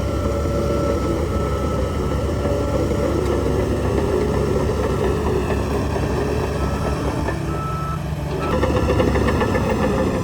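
Heavy diesel earthmoving machinery running steadily with its backup alarm beeping on and off. In the last two seconds a louder, rattling noise comes in.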